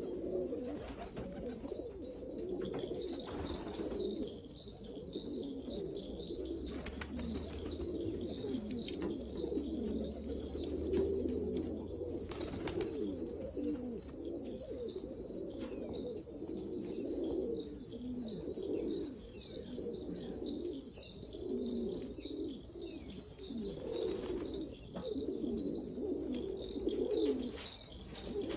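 Pigeons cooing, many overlapping calls in a steady chorus, with a few scattered sharp clicks.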